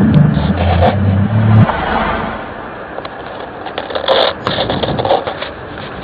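Low, horn-like droning tones of the kind reported as the 2012 'strange sounds', stepping down in pitch and cutting off under two seconds in. Outdoor background noise follows, with a brief rushing swell about four seconds in.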